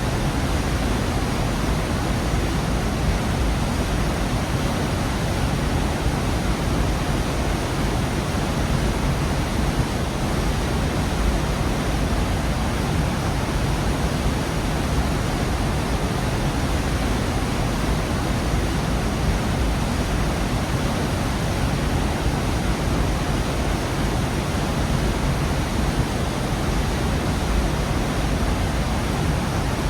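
Waterfall in a rocky gorge: a steady, dense rush of falling water, heaviest in the low end.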